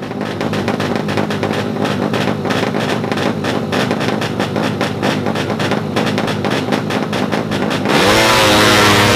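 A drag-racing motorcycle engine runs with a fast, even pulsing beat. About eight seconds in it turns suddenly louder and revs hard as the bike accelerates away, its pitch sweeping up and wavering.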